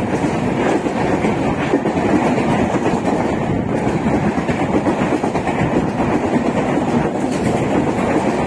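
Passenger express train's coaches passing at speed close by without stopping: a loud, steady rumble of steel wheels on the rails.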